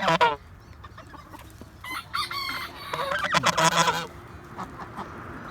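Barnyard fowl calling: a rooster crows for about a second, roughly three seconds in, with shorter calls from other chickens and geese around it.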